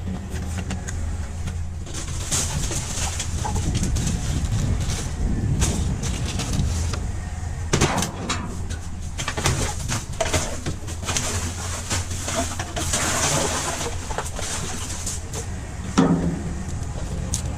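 Clattering and rustling of junk being rummaged through and handled in a dumpster, with sharp knocks about eight seconds in and again near the end, over a steady low rumble.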